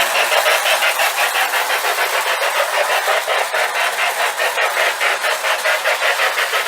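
Lionel O-gauge Southern 2-8-2 Mikado model steam locomotive running, its chuff sound going in an even rhythm of a few beats a second.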